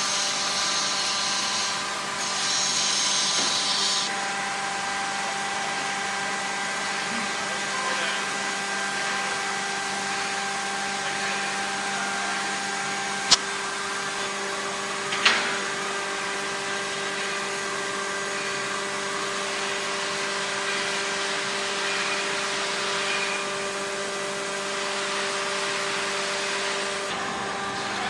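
A machine running steadily, with a whine of several fixed tones over a hiss, and two sharp clicks about two seconds apart in the middle.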